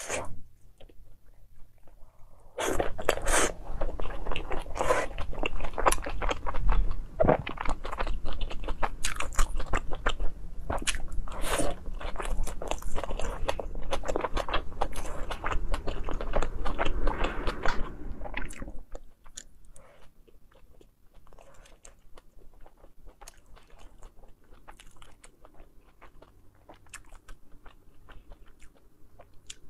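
Close-miked eating of crisp pan-fried dumplings: a bite, then dense crackly chewing. The chewing turns much quieter and sparser about two-thirds of the way through.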